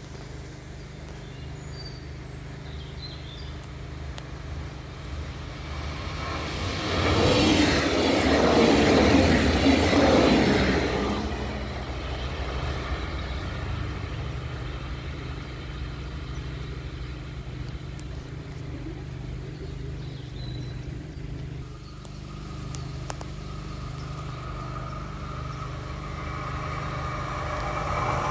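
A train passes close, loudest about seven to eleven seconds in, then fades away. Near the end a DB electric locomotive approaches, its running sound growing louder with a steady electric whine.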